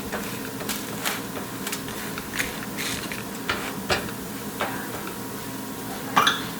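Light scrapes and clicks of a utensil against a dosa pan as a dosa cooks, spaced irregularly over a steady low hum, with a louder clatter near the end.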